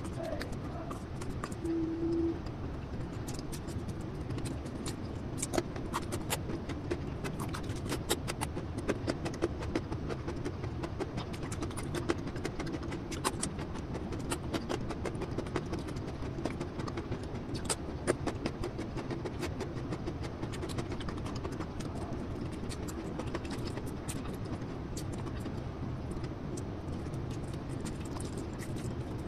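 Close-up eating sounds: chewing and mouth noises with many small wet clicks and smacks, as steamed sweet potato and carrot are eaten, over a steady low background hiss.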